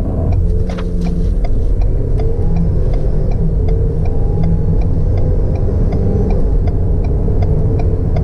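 Ford Bronco Sport First Edition's 2.0-litre turbocharged four-cylinder accelerating hard from a standstill at full throttle, heard from inside the cabin, its pitch climbing and dropping back at an upshift. A steady ticking a little over twice a second from the hazard-light flasher runs alongside.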